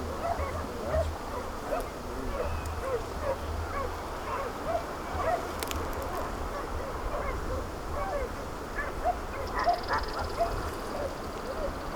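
A pack of hunting dogs barking and yelping at a distance, many short barks overlapping without pause, over a steady low rumble.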